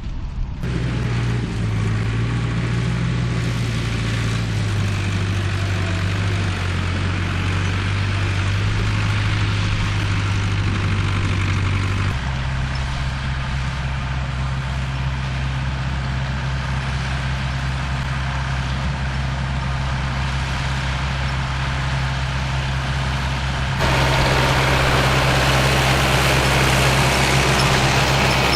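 Diesel tractor engines running steadily. The engine note changes abruptly about 12 seconds in and again about 24 seconds in, and the last stretch is louder.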